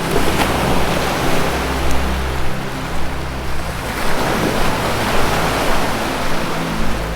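Ocean waves washing on a shore in a steady rush, with low sustained music notes held underneath that shift every second or two.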